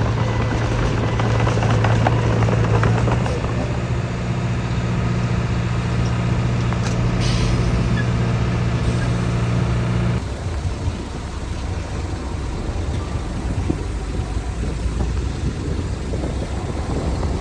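Heavy diesel earthmoving machinery running: one engine's steady hum drops away abruptly about ten seconds in, leaving a lower diesel rumble. There is a short hiss around seven seconds.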